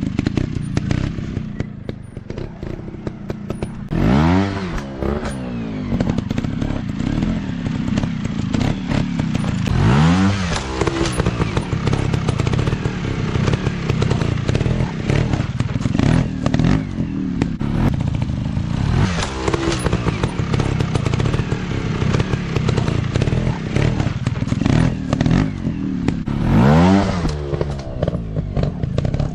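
Dirt bike engines running, with four rising revs spaced several seconds apart over a steady engine note.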